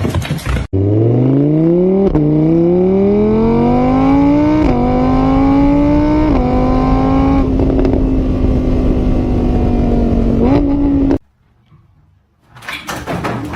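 Car engine accelerating hard through the gears: its pitch climbs, drops at each of three gear changes, and then holds steady at speed. It cuts off abruptly about eleven seconds in, and a short noisy burst follows near the end.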